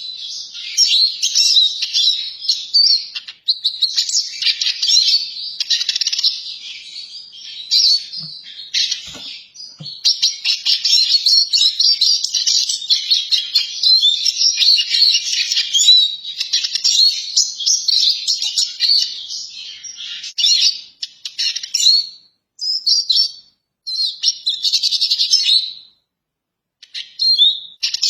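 Eurasian siskin singing: a long run of rapid twittering notes, broken by a few short pauses near the end.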